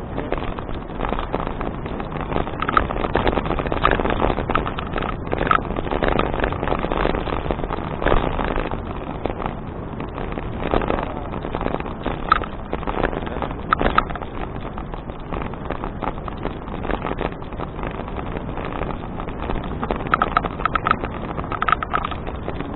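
Riding noise of a touring bicycle: wind rushing over the action camera's microphone and the tyres and frame rattling along the path, with many irregular knocks and clicks over bumps.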